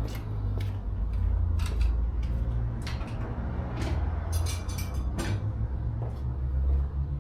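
Scattered clicks and light metallic knocks of hand work on a car wheel being refitted, with a quick run of small ticks about four and a half seconds in, over a steady low rumble.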